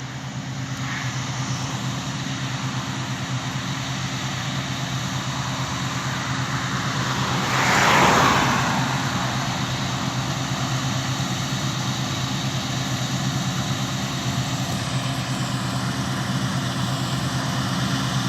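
Steady diesel engine drone of harvesting machinery working in the field. About eight seconds in, a broad whooshing swell rises and fades over a couple of seconds, like a machine or vehicle passing close by.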